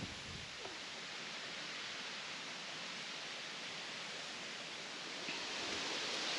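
Steady, even outdoor background hiss with a faint rustle, growing a little louder near the end.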